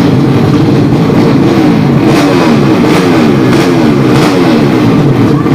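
Drag racing motorcycles with 200cc horizontal-cylinder ("sleep") engines accelerating hard at full throttle, the engine pitch climbing again and again in short rises as they shift up through the gears.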